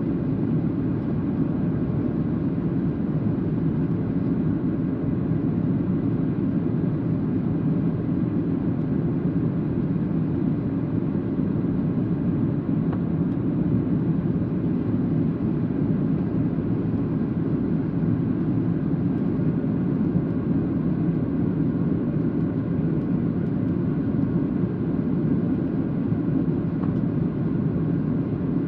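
Boeing 737-800 in flight on approach: a steady, even drone of engines and rushing air with no rise or fall.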